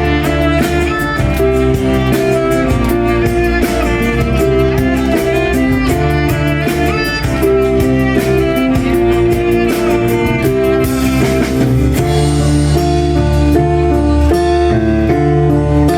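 Rock band playing live: amplified guitars over a drum kit, loud and continuous.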